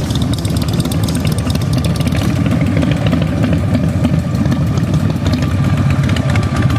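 Motorcycle engines running at idle, a steady, loud, low rumble with a pulsing beat.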